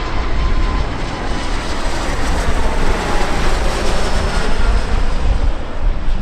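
Jet airliner passing, a loud engine rush with a whine that slowly falls in pitch, over low wind rumble on the microphone.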